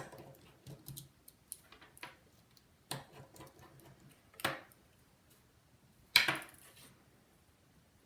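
Precision tools clicking and clinking against an iPhone 5's housing while its volume button bracket is unscrewed. Scattered light taps, the loudest clatter about six seconds in.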